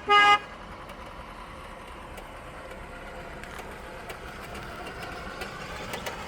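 A vehicle horn gives a short beep right at the start, then a vehicle's engine and road noise run steadily.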